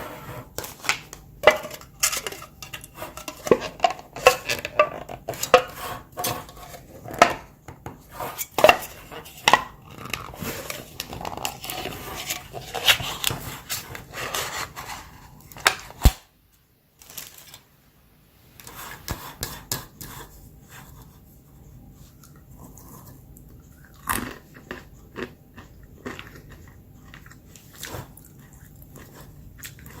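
Close-up handling of a container of Sriracha-seasoned almonds: packaging crinkling and tearing, nuts rattling and clicking against a dish, with some crunching. Dense at first, then sparser after a brief silent break just past halfway.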